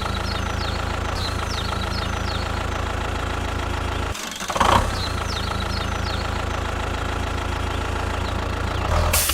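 Small tractor engine idling steadily, with a brief drop-out a little before the middle. Faint high chirps sound over it.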